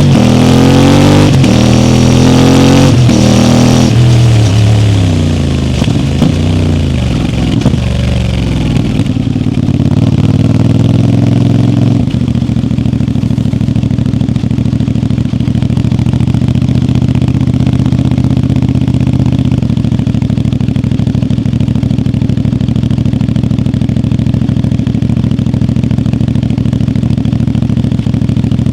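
CFMoto 450MT's parallel-twin engine rising and falling in pitch as the bike rides and slows, then settling about twelve seconds in to a steady idle.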